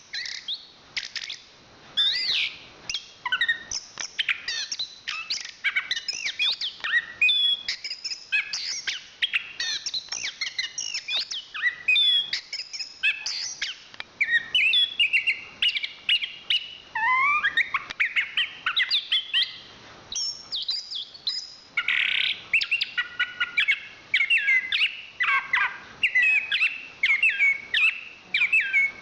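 Chestnut-capped thrush singing a long, rapid stream of varied high chirps, trills and short whistled glides, with a brief lull about two-thirds of the way through.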